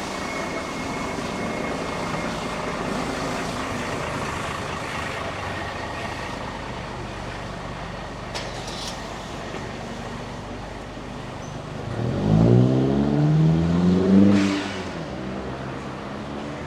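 Steady traffic hum, then about twelve seconds in a motor vehicle accelerates close by, its engine note rising for about two seconds before dropping away.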